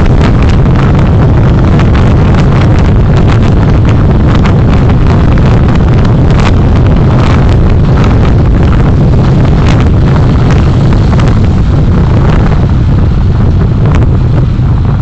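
Moving vehicle recorded by a dashcam: a loud, steady rumble of road and engine noise mixed with wind buffeting the microphone, with many faint short crackles throughout.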